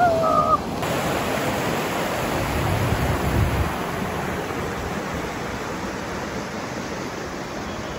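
Steady rushing of river water, an even noise with no rhythm, with a brief pair of gliding tones right at the start.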